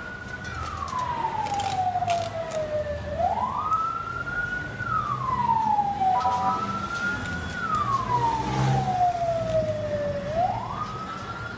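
Emergency vehicle siren wailing in slow cycles: each one rises quickly, holds briefly and falls away slowly, repeating about every three and a half seconds, over a low engine rumble.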